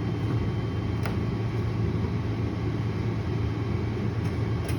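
Tow truck's engine idling with a steady low rumble, with a single light click about a second in.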